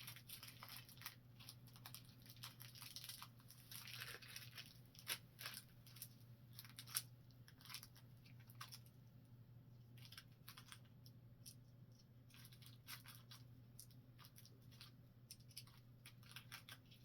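Faint rustling and tearing of packaging with scattered small clicks as small parts are handled, over a low steady hum.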